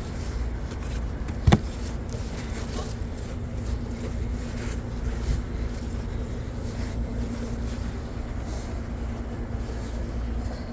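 Steady low rumble with a faint even hum from a car running, with one sharp click about one and a half seconds in.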